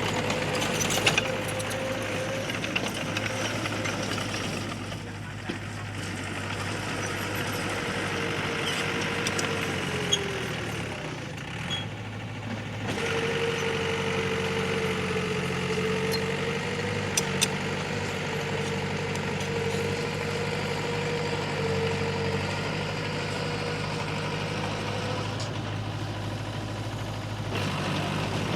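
Diesel engine of a heavy earthmoving machine running steadily with a constant whine. About ten seconds in, the engine note sags and the whine drops away, then both come back about three seconds later. A few sharp clanks sound along the way.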